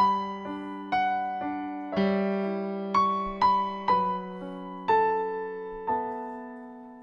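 Solo piano playing the introduction to a worship song: a melody of single struck notes over held low chords, a new note about every half second to a second, the sound dying away near the end.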